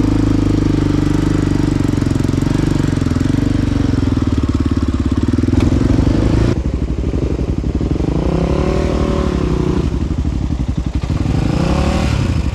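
Single-cylinder four-stroke ATV engine running on a trail, loud and close. About halfway through the sound changes abruptly, and then the revs rise and fall.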